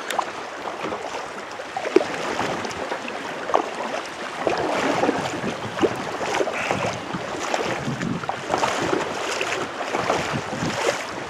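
Choppy water splashing and slapping around a kayak, with irregular paddle splashes rising and falling in loudness.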